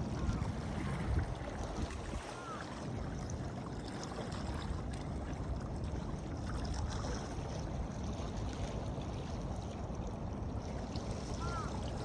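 Shoreline ambience: steady wind on the microphone over water washing at the shore, with a few short high chirps near the start and again near the end.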